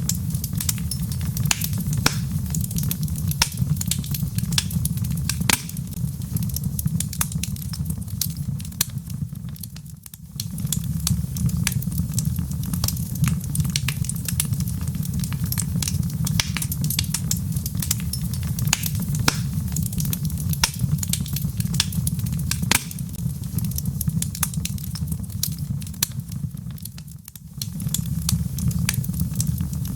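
Wood fire burning in a fireplace: dense, irregular crackles and pops of burning logs over a steady low rumble of flame. The low rumble fades out briefly about ten seconds in and again near the end.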